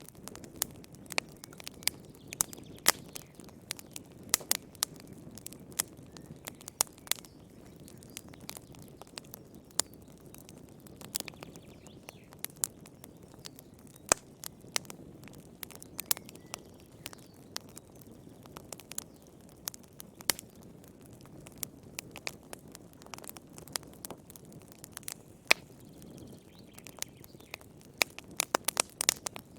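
Wood fire burning in a fireplace: a low steady rush of flame under irregular sharp crackles and pops, which come thick and fast near the end.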